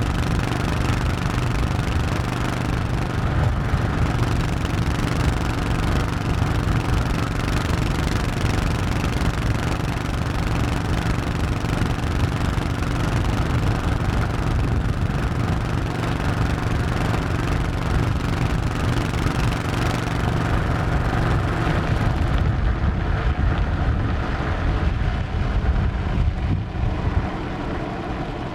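Honda 1100cc V-twin motorcycle engine running under way with a steady note. About three quarters of the way through the note changes and loses its top end, and it gets slightly quieter near the end.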